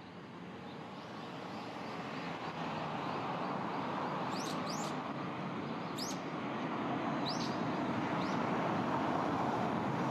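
A small bird gives several short, upward-sweeping chirps in the middle of the stretch. Under them, a rushing background noise grows steadily louder, like approaching traffic.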